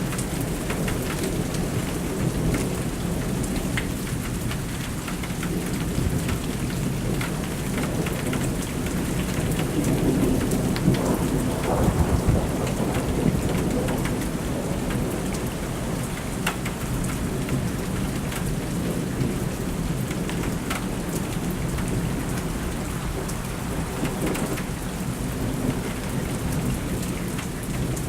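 Thunderstorm: heavy rain falling steadily with many close drop impacts, and a rumble of thunder swelling about ten seconds in and dying away a few seconds later.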